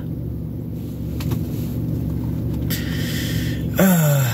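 Car engine idling inside the cabin, a steady low hum. Near the end a man's voice gives a short, falling vocal sound, the loudest moment.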